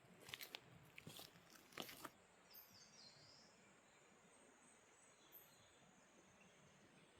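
Near silence: faint outdoor ambience with a few soft crunching clicks in the first two seconds, then brief high chirps from a bird.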